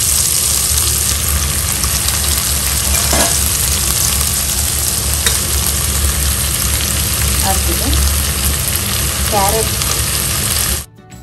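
Sliced leeks frying in oil in a wok, a steady loud sizzle that cuts off suddenly near the end.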